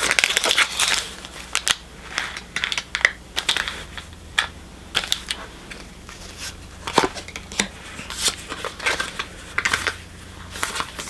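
Pokémon booster pack and cards being handled: crinkling of the foil wrapper and a run of irregular clicks and rustles as the cards are slid and flicked through, busiest in the first second or so.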